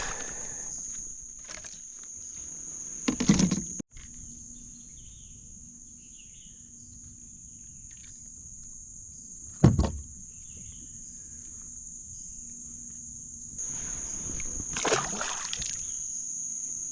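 Steady high-pitched drone of a chorus of crickets and other insects, with a few sharp knocks and handling noises against a kayak. The loudest knock comes about ten seconds in. The sound cuts out briefly about four seconds in.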